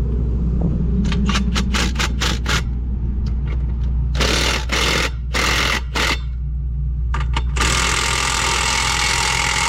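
Impact wrench run in bursts: first a quick rattle, then four short bursts, then one long burst of about two and a half seconds. An engine runs low and steady underneath.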